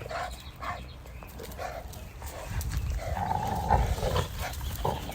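American Bully dogs vocalising: short separate sounds at first, then a longer, louder sound from about three seconds in, over low rumbling.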